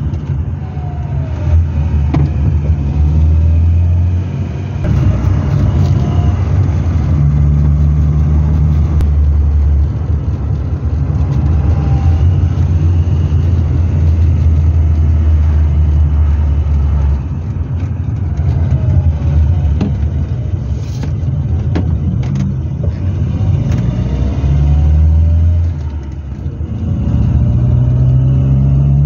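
Hillman Super Minx's four-cylinder engine running under way, heard from inside the cabin with road and wind noise. The engine note steps down and back up several times as the car changes pace.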